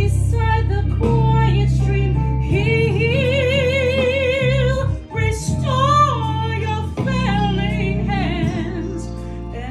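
A woman singing a slow gospel hymn, holding long notes with a wide vibrato over a sustained low accompaniment.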